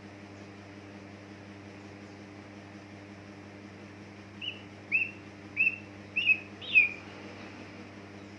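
A green leafbird (cucak ijo) gives five short, sharp chirps in quick succession, starting about halfway through, each dropping quickly in pitch, the last the loudest. A steady low electrical hum runs underneath.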